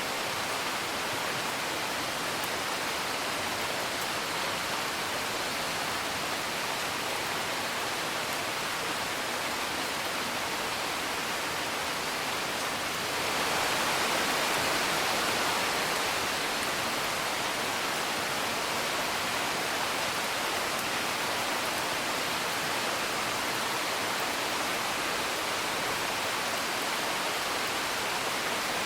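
Steady rain heard from indoors as an even hiss, swelling louder for a few seconds about halfway through, with faint sparse crackles of a wood fire.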